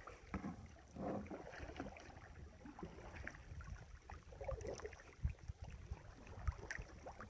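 Kayak paddling: irregular faint splashes and drips of the paddle blades in the water, with two sharp low knocks in the second half.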